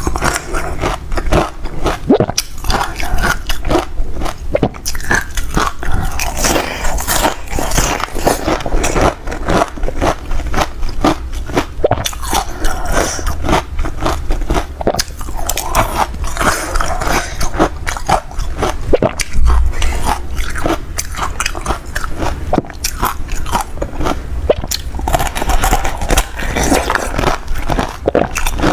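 Close-up crunching of ice being bitten and chewed in the mouth, a dense, irregular run of sharp cracks and crunches with no pause.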